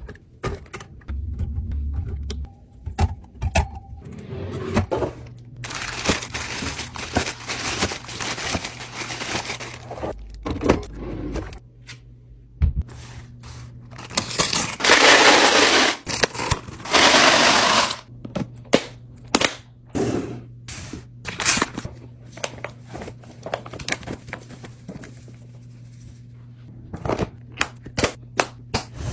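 Food containers and packaging being handled while stocking a fridge: many clicks, taps and clunks, with two longer stretches of loud rustling noise, the second near the middle.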